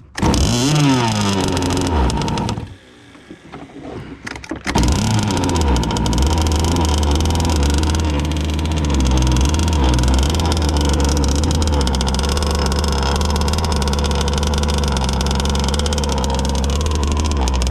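Zenoah two-stroke gas engine of an RC race boat revving up and down in bursts. It drops away briefly about two and a half seconds in, then comes back and runs steadily at high throttle, with the stinger freshly lowered.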